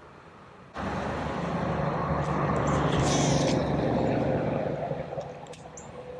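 A motor vehicle passing close by: engine and tyre noise that starts suddenly about a second in, then fades away over the next few seconds.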